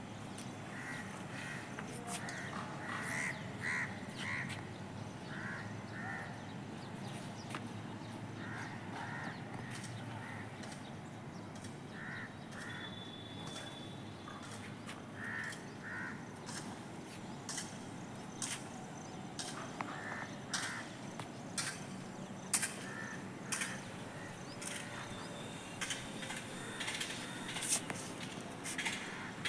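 Birds calling outdoors in short repeated calls, mostly in pairs and threes. Scattered sharp clicks come in the second half.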